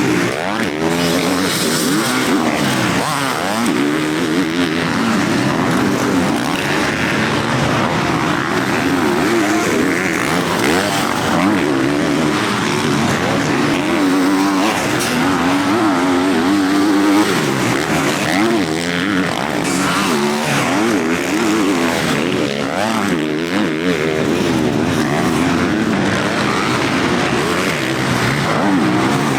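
Several motocross bikes racing, their engines revving up and down and overlapping continuously as they accelerate and shift around the track.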